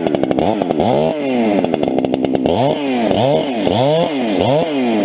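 Husqvarna 394 two-stroke chainsaw running and being blipped, revving up and dropping back about five times with a steady stretch between. Its throttle cable has just been fixed so the carburettor returns fully, and its chain is freshly filed.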